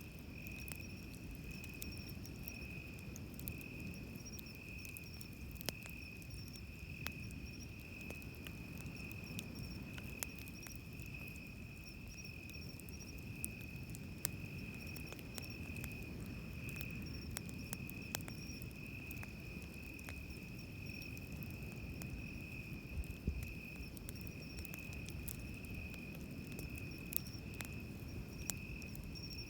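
Insects singing in a steady high trill, over the low wash of waves on the beach, with scattered small crackles from a wood campfire.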